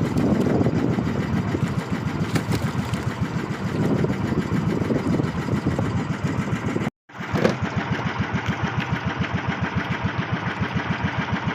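Engine of a motorized bangka (outrigger fishing boat) running steadily, its firing pulses evenly spaced. The sound drops out briefly about seven seconds in, then the same engine carries on.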